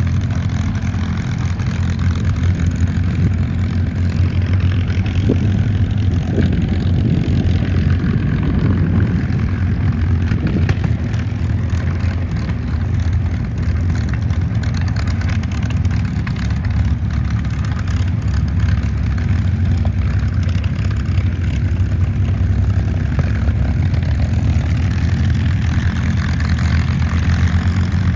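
P-51 Mustang's V-12 piston engine running steadily, a deep even drone that holds without a break.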